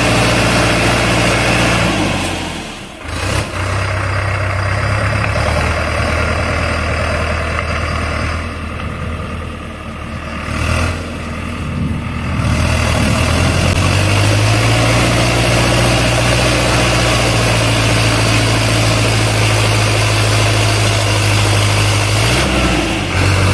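Sonalika Tiger 4x4 tractor's diesel engine running, its note dropping lower and rougher about two seconds in, with a brief dip in level, then settling back to a steady higher note about halfway through.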